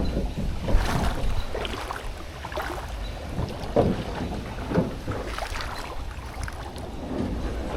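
Wind rumbling on the microphone, with scattered splashes and knocks of water and a canoe hull in shallow river water, coming about every second.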